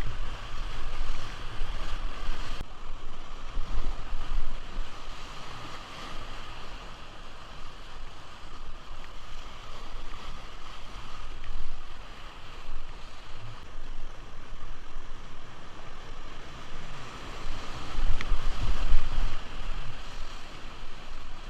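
River water rushing steadily, with low gusts of wind buffeting the microphone that are strongest near the end.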